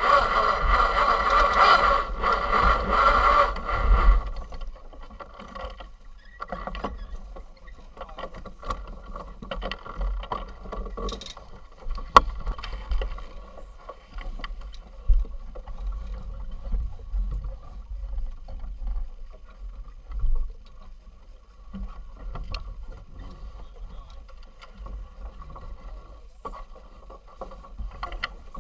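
Racing yacht under sail: a loud rushing noise for the first four seconds, then quieter with low rumbling gusts and scattered sharp knocks and creaks.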